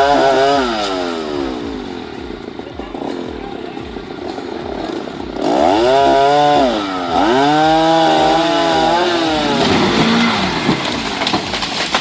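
Small petrol engine of a wood-cutting machine running hard, its pitch sagging and climbing back again and again as it is loaded and released; it drops back for a few seconds early on, then revs up again about five seconds in.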